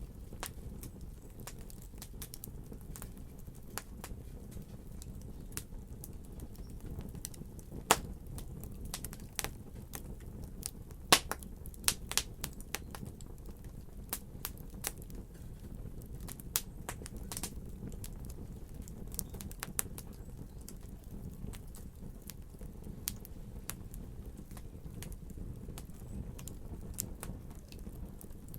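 Fireplace fire crackling: irregular sharp pops and snaps over a low, steady rumble of the flames, with two louder pops about eight and eleven seconds in.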